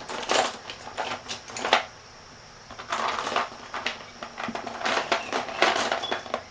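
Small plastic toy figures clattering and rustling as they are rummaged through and handled, in irregular clicks and scrapes.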